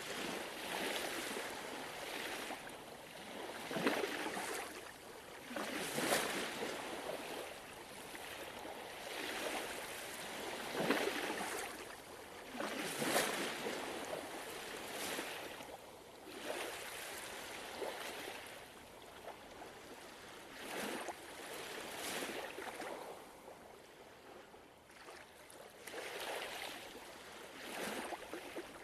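Gentle ocean waves washing in, each small wave surging and falling away every two seconds or so, quieter for a while past the middle.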